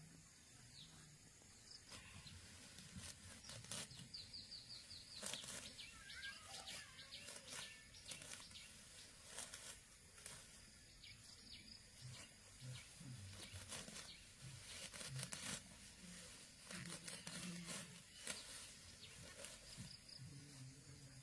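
Faint outdoor ambience: scattered rustling and clicks from close handling, with a few faint bird chirps.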